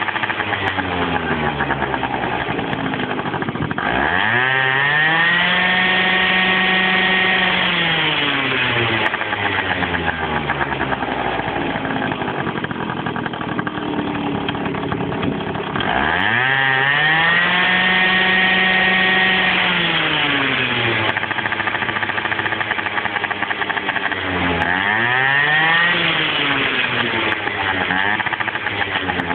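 Small motor scooter engine revved hard three times: each time it climbs quickly to high revs, holds there for a few seconds and drops back to idle. The last rev, near the end, is shorter.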